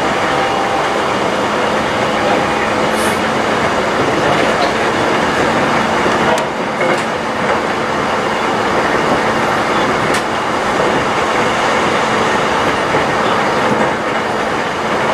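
Running noise inside a moving electric train car: wheels rolling on the rails under a faint steady hum, with a couple of sharp clicks about six and ten seconds in.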